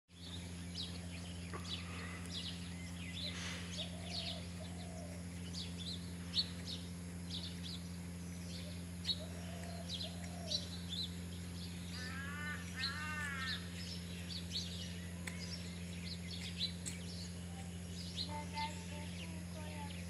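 Birds chirping and calling, many short chirps with a run of rising-and-falling notes about twelve seconds in, over a steady low hum.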